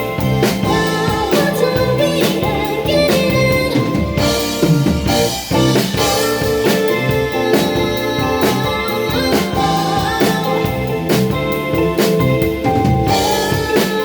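Live indie band playing an instrumental passage with drum kit and guitar, a steady beat running under sustained chords.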